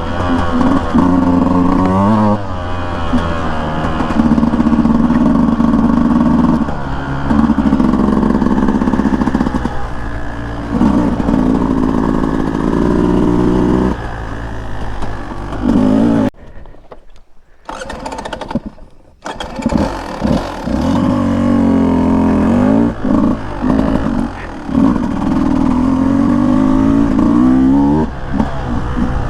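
Beta 200 two-stroke dirt bike engine being ridden on a trail, revving up and down over and over as the throttle is worked. The engine sound drops away for about three seconds just past the middle, then picks up again.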